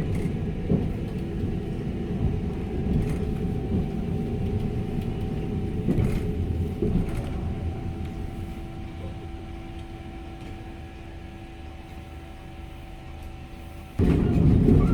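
Heritage electric tram rumbling with a steady hum and a few knocks, growing quieter over the last several seconds as it draws into a stop. Much louder vehicle noise cuts in suddenly near the end.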